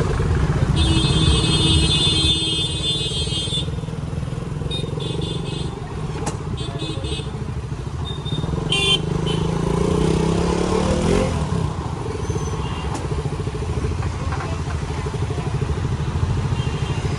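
Motorcycle engine running, revving up about ten seconds in, among vehicle horns: a long horn blast about a second in, then several short beeps.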